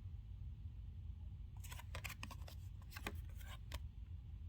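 Old paper being handled: a run of faint, short crackles and rustles in the second half, over a low steady hum.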